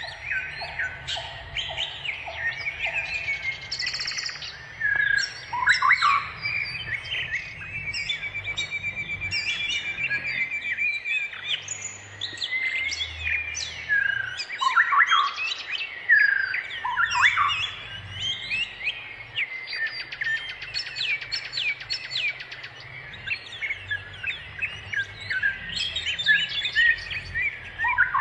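Several wild birds chirping and calling at once, a busy mix of short overlapping chirps, whistled glides and a fast trill about a third of the way in.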